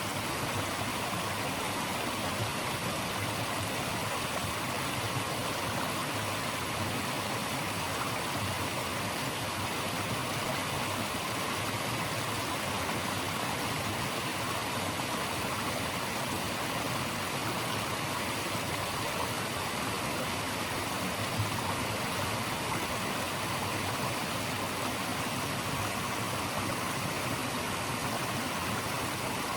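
Flowing water of a stream rushing steadily, an even, unbroken hiss.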